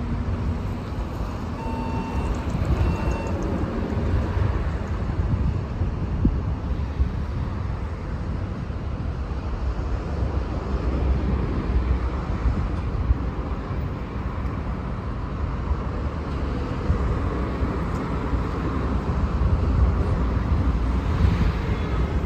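Street traffic noise: a steady rumble of passing cars. Two short beeps sound about two and three seconds in.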